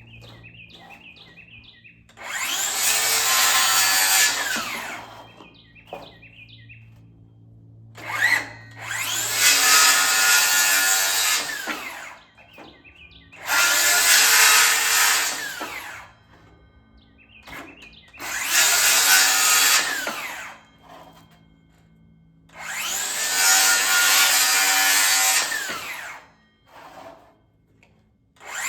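A power tool working into wood in five bursts of two to three seconds each, with short pauses between.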